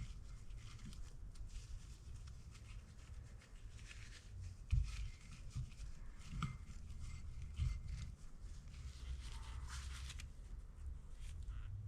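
Hand-work noises on engine parts: light clicks, rustling and scraping, with a few sharper knocks about five, six and a half and seven and a half seconds in, over a steady low hum.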